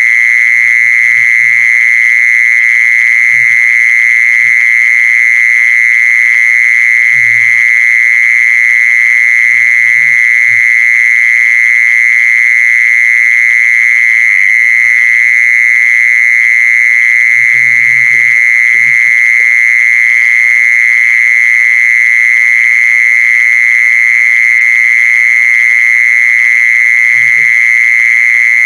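Mole cricket singing a loud, continuous, unbroken high trill.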